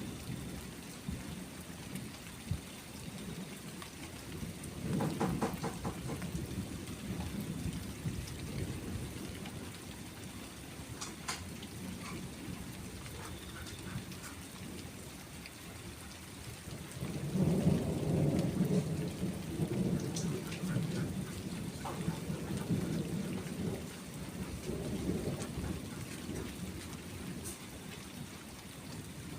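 Steady rain with rolling thunder: a low rumble swells about five seconds in, and a longer, louder one builds about seventeen seconds in and rolls on for several seconds before fading.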